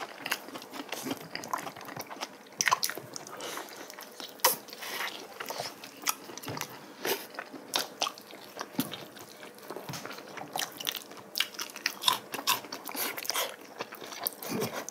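Close-miked eating sounds: chewing and biting on braised oxtail, with many short, irregular, sharp mouth and teeth clicks.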